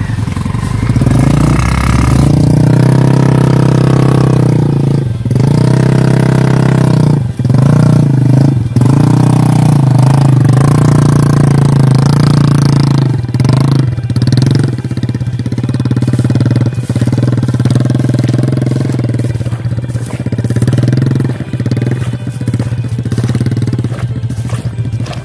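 Honda motorcycle engine running under load with a rack of watermelons on the back, its pitch dipping and rising several times as the throttle is worked along the field track.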